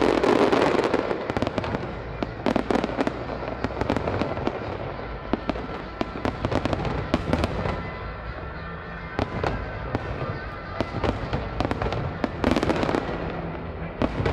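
Fireworks display: many sharp bangs of bursting shells, with dense crackling bursts near the start and again near the end, and music playing underneath.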